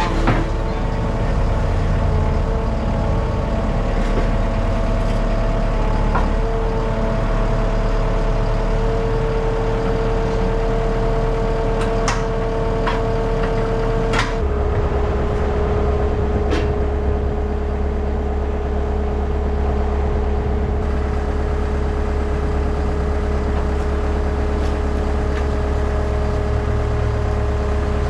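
Skid steer engine running steadily. About halfway through, its note changes suddenly, with a few sharp clicks or knocks around that point.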